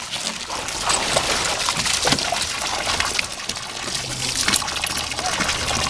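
Water sloshing and trickling in a shallow dog wading pool as a small dog stands and steps in it, a steady wash of water noise.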